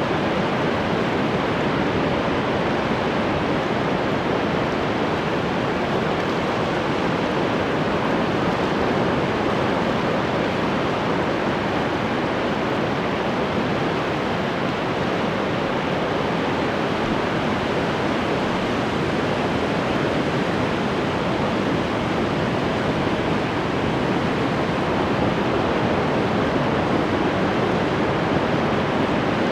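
Ocean surf: a steady, continuous rush of breaking waves, with no single breaker standing out.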